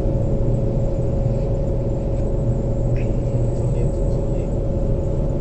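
Train running, heard inside the passenger carriage: a steady low rumble with a constant hum.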